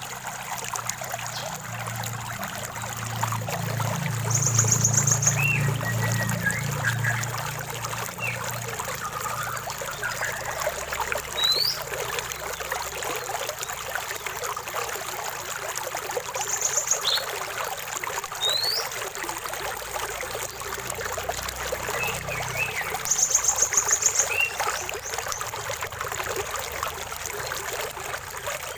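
Stream water trickling and splashing steadily, with birds calling over it: a few short rapid trills and a couple of quick rising whistles.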